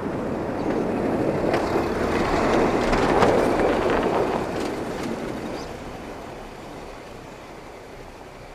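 A vehicle passing by, its noise swelling to a peak about three seconds in and then fading away, with a few sharp clicks near the peak.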